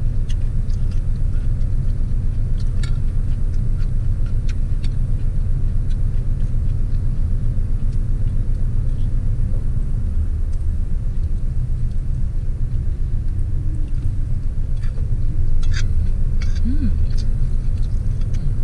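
Steady low rumble of a car idling, heard from inside the cabin, with a few faint clicks of a metal fork against a plate as someone eats.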